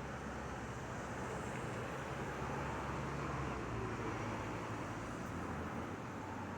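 Steady rushing of rain and wind in a thunderstorm, with a low rumble underneath that fades about four seconds in.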